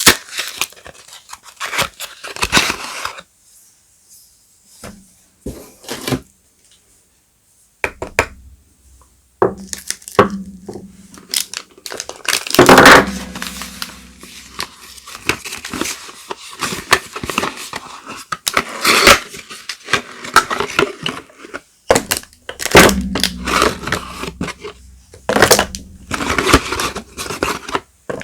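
Soap bar wrappers being torn open and crinkled by hand: irregular tearing and crackling, with a quiet pause a few seconds in and occasional soft knocks of the bars being handled.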